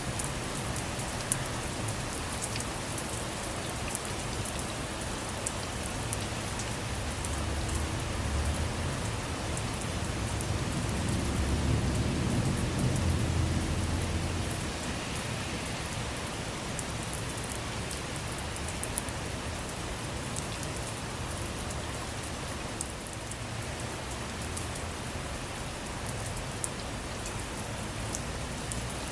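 Steady rain falling on a car, a dense patter of drops. A low rumble of thunder builds about a quarter of the way in, swells for several seconds and dies away before the halfway point.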